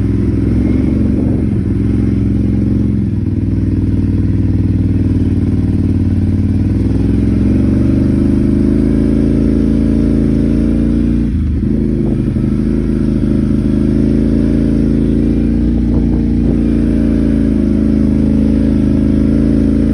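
Off-road vehicle engine running loudly, its pitch mostly steady, with a brief dip and recovery about halfway through.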